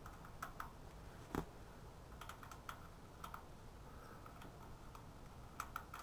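Light clicking of a 12 mm ratchet wrench loosening a bolt: scattered single clicks, then a quicker run of clicks near the end.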